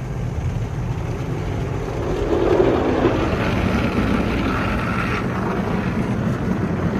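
Tunnel car wash equipment heard from inside the car: a steady low rumble, with a louder hiss of washing on the car body that swells about two seconds in and cuts off a little after five seconds.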